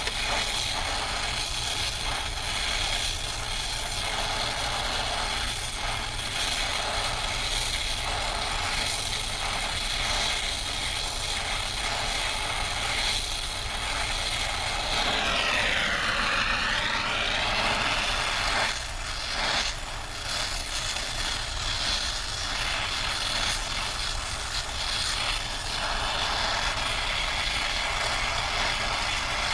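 Brazing torch flame hissing steadily while heating a copper refrigerant line for a silphos joint, with a brief wavering whine about halfway through.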